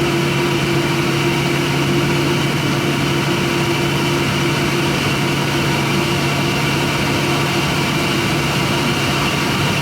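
Airliner engines and cabin air system running steadily at idle, heard inside the cabin, with an even rush and several steady hums, one of which fades out about halfway through.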